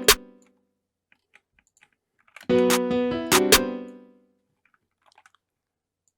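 A trap beat in progress played back in short bursts in FL Studio: keyboard-like chords with sharp percussive hits. One burst ends just after the start, and a second plays from about two and a half seconds in for nearly two seconds. Faint computer keyboard and mouse clicks fall in the quiet gaps.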